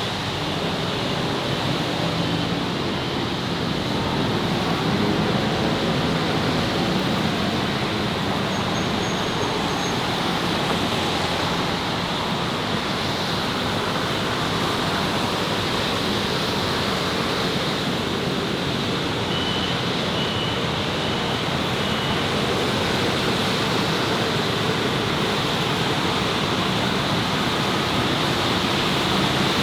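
Steady city street ambience: a constant wash of traffic noise, with faint voices in the first several seconds.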